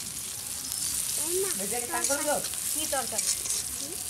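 Chopped garlic sizzling steadily as it fries in hot oil in a karai, with a metal spatula stirring and scraping the pan. A voice is heard in the background from about a second in until near the end.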